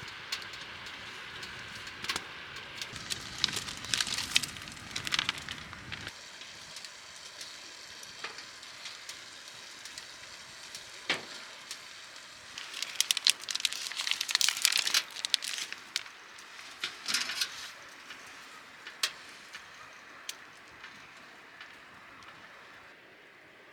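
Wood fire crackling and popping, with irregular sharp snaps that come in thicker flurries twice. A low rumble underneath stops suddenly about six seconds in.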